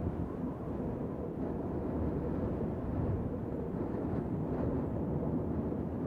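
Wind blowing: a steady, low rush of noise with slight rises and falls in strength.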